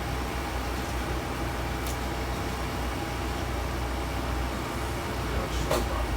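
Steady mechanical hum with a low rumble and a faint constant tone, with a brief clink near the end.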